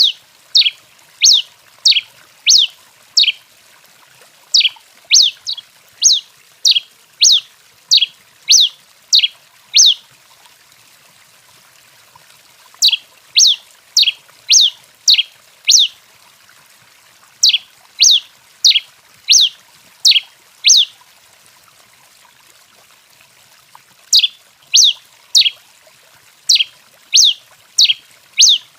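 Tico-tico-rei (Coryphospingus finch) singing: a run of sharp, down-slurred chip notes, about one and a half a second, broken by pauses of two to three seconds between runs.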